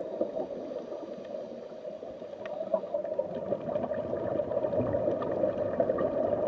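Underwater sound through a camera housing: a steady muffled crackling hiss with the gurgle of a scuba diver's exhaled bubbles, growing louder about halfway through.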